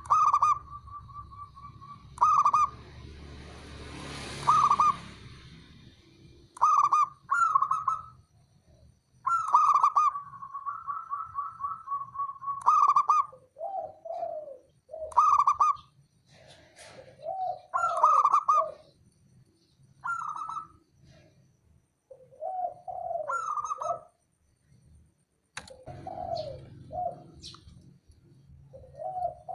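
Zebra doves (perkutut) cooing in repeated phrases: short clear coos and rolling, trilled notes, some held steady. From about halfway, lower-pitched coos alternate with the higher ones.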